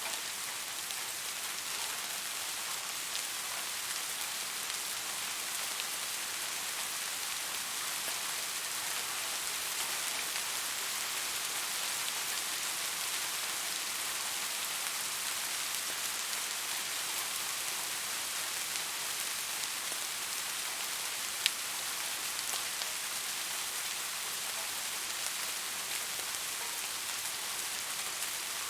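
Steady rain falling on a surface, an even hiss of many fine drop ticks, with one sharp single click near the end.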